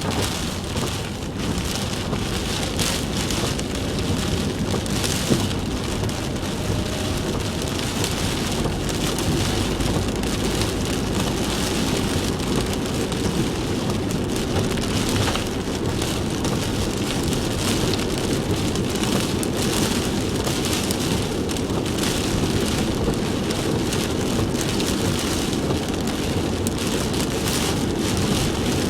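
Heavy typhoon rain beating on a moving car, mixed with a steady wash of tyre and road noise on the wet road.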